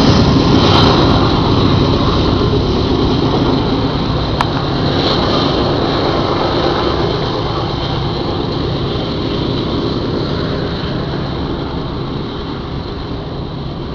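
Metra commuter train pulling out of the station: a steady rumble of the train and its cars that slowly fades as it moves away. One sharp click about four and a half seconds in.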